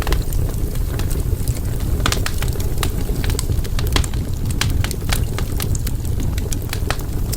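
Wood campfire burning: a steady low rumble of flame with frequent sharp crackles and pops from the burning wood, several a second.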